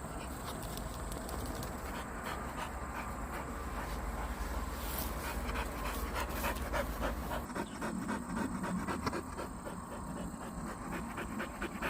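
Dog panting quickly and steadily.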